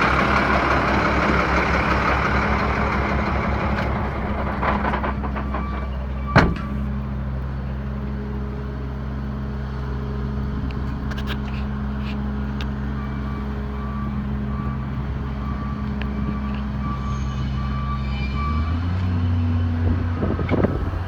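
Diesel engine of a Freightliner M2 106 dump truck running steadily at idle. A hiss at the start fades out within a few seconds, a single sharp click comes about six seconds in, and the engine note changes near the end.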